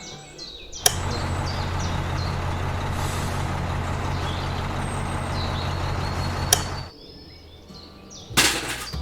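A vehicle motor running steadily for about six seconds with a low, even hum. It starts with a sharp click about a second in and stops just before the seven-second mark.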